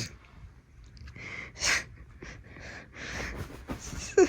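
Several short bursts of rustling from a crinkly comforter as a kitten scrabbles and plays on it, with a brief sharp sound near the end.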